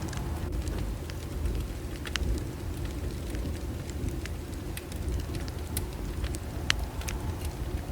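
Wood bonfire burning: a low steady rumble of the flames with scattered sharp crackles and pops from the burning wood, one louder pop about two seconds in and another near the end.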